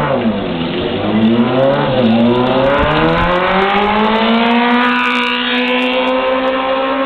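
Motorcycle engine under way: its pitch dips in the first second, then climbs steadily for the rest as it accelerates.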